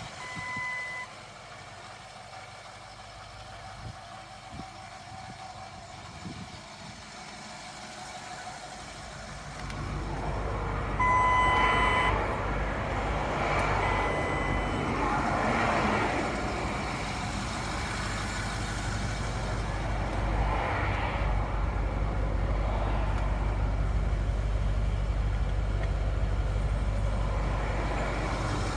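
Range Rover Vogue's 3.6-litre twin-turbo TDV8 diesel V8 comes in about ten seconds in and runs at a steady idle. Short electronic beeps from the car sound once at the start and a few times just after the engine comes in.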